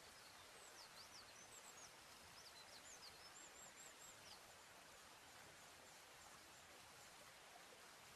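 Near silence: a faint steady outdoor hiss, with a bird's faint high chirps and short whistled notes during the first half.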